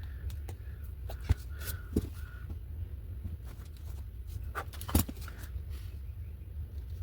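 A few light clicks and knocks from handling paint and art supplies at a work table, the loudest about five seconds in, over a low steady hum.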